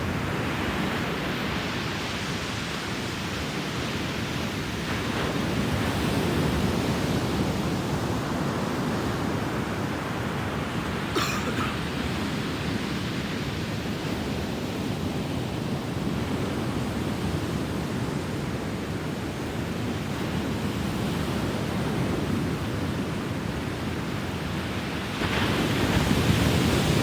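Ocean waves washing onto a beach: a steady rush of surf that swells and ebbs, loudest as a wave breaks near the end. A brief high chirp sounds about eleven seconds in.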